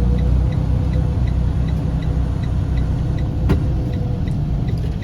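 Semi-truck diesel engine running, heard from inside the cab, with a light tick repeating steadily about three times a second and one sharp click about three and a half seconds in.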